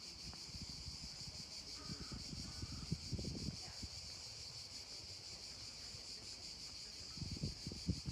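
A steady, high insect chorus drones continuously, with irregular low bumps and thumps beneath it that grow stronger near the end.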